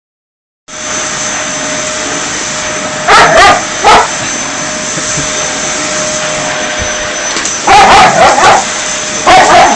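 Vacuum cleaner running with a steady drone while a dog barks at it in short volleys: a few barks about a third of the way in, then a longer run of barks near the end.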